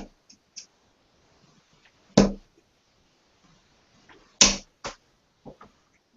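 Darts thudding into a dartboard: a few sharp single hits, the loudest about two seconds in and then two close together around four and a half seconds, with fainter knocks between.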